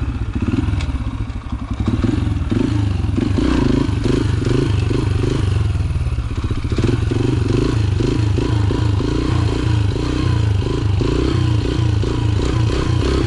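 Yamaha TT-R125's single-cylinder four-stroke engine running under way, its revs rising and falling over and over, a little quieter for the first two seconds.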